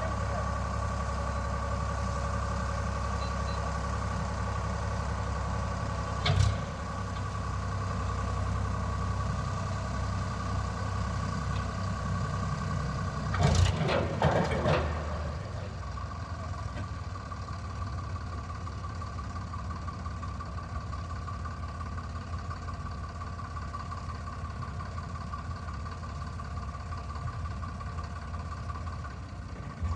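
Tractor engine running steadily. A sharp knock comes about six seconds in, and a louder clatter of knocks comes around the middle.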